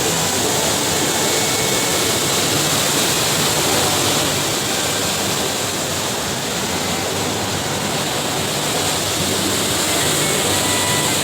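Floodwater rushing through a barrage, a loud, steady wash of noise.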